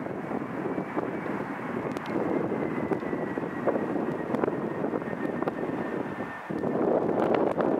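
Airbus A320 jet engines on landing, a steady rushing roar with a faint high whine that slides slowly down in pitch; the noise dips briefly near the end, then swells louder.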